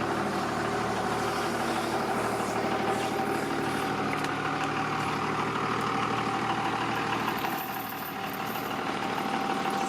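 An engine running steadily at idle, a constant hum with one strong steady tone.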